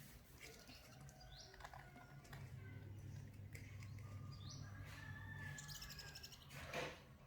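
Faint bird calls: about three short rising chirps, then a brief rapid rasping call about six seconds in. A single soft knock comes just before the end, over a low steady hum.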